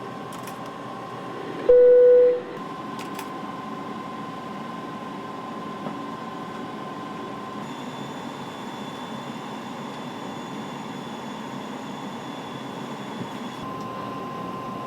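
Steady aircraft cockpit noise, a constant hum of airflow and equipment with a steady tone running through it. About two seconds in, one loud single beep lasts under a second.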